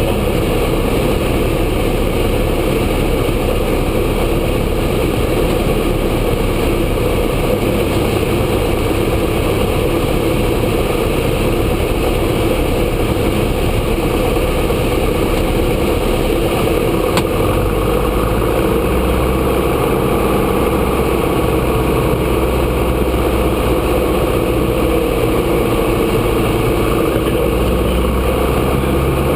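Grumman Cheetah light aircraft's four-cylinder Lycoming piston engine running steadily, with its low note changing about two-thirds of the way in.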